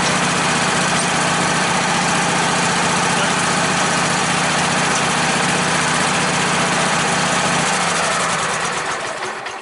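An engine running steadily at idle, then dying away near the end as it is shut off.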